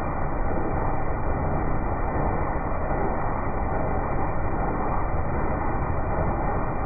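A vehicle engine running with a steady, even rumble.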